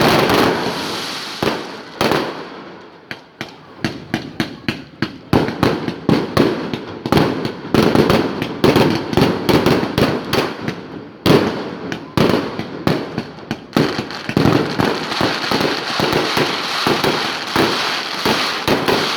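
Aerial fireworks bursting in rapid, dense volleys of sharp bangs and crackles, several detonations a second, with a brief lull around the middle.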